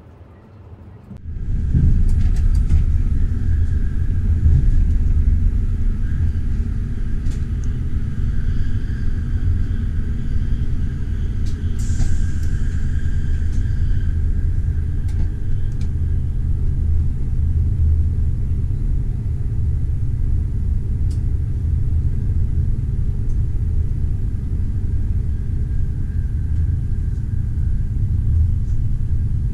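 Steady low rumble of a passenger train running on its rails, starting abruptly about a second in, with a faint high-pitched whine through the middle.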